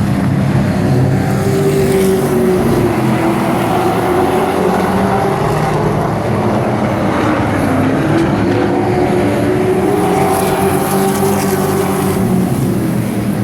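Several race trucks' engines running laps on an oval track, a steady loud drone whose pitch rises and falls slowly as the trucks circle.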